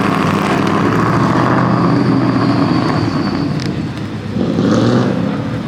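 Car engine running steadily, with a brief swell in loudness about four and a half seconds in.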